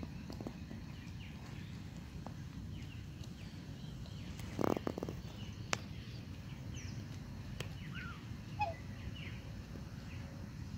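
A few short, faint bird chirps, mostly in the second half, over a steady low outdoor rumble, with a couple of soft clicks and a brief low sound near the middle.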